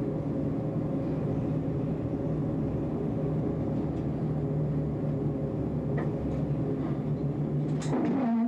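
Tram running on street track: a steady rumble and hum from its motors and wheels, with a few sharp clicks. Near the end a whine falls in pitch as it slows.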